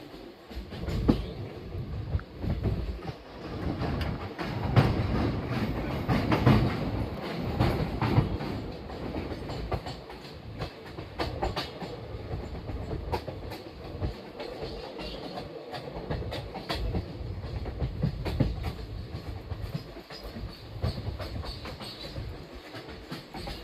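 Indian Railways passenger train running on the track: a steady low rumble with the irregular clatter of wheels over rail joints, louder for a few seconds in the first half.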